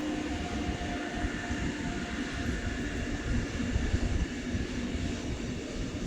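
A train running past on the track: a steady low rumble of wheels and running gear, with a faint hum that fades out early on.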